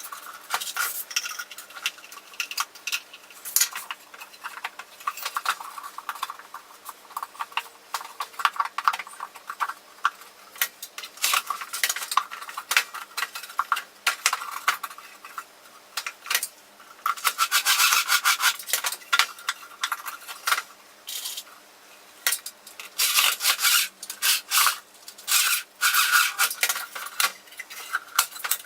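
Hand tools working on old wood: a dense run of small clicks, rubbing and scraping strokes, with louder runs of strokes past the middle and again near the end.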